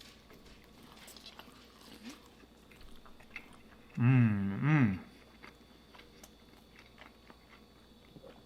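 A man chewing pizza close to the microphone: faint wet smacks and clicks of the mouth. About four seconds in, a loud hummed "mmm" of enjoyment that rises and falls in pitch twice.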